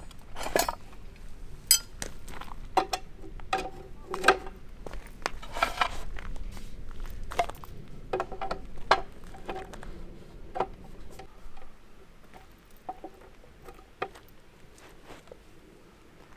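Irregular clinks and knocks of hard camp gear being handled, several with a short ring. They come thick in the first ten seconds and then thin out and grow quieter.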